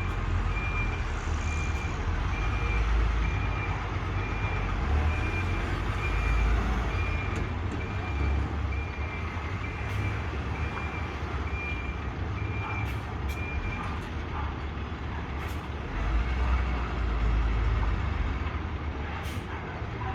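A truck's reversing alarm beeping in a steady single tone, under two beeps a second, over the low rumble of the truck's engine as it manoeuvres. The beeping stops about two-thirds of the way through, while the engine runs on and swells louder near the end.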